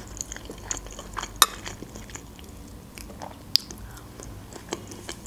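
Close-up eating sounds: chewing and small mouth clicks and smacks, with a few sharp clicks of a metal fork against a plate, the loudest about a second and a half in.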